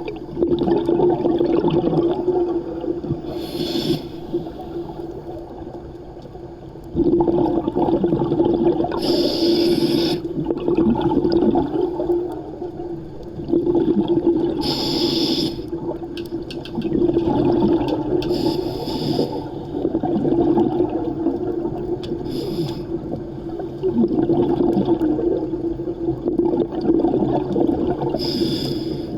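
Scuba diver breathing through a regulator underwater: a short hissing inhale about every five to six seconds, between rushing, bubbling exhales.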